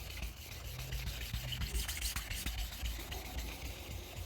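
Car paintwork being wet-sanded by hand with 3000-grit wet and dry paper: soft, irregular rubbing strokes. This is the fine refining stage of flatting out bird-dropping etching in the clear coat, before polishing.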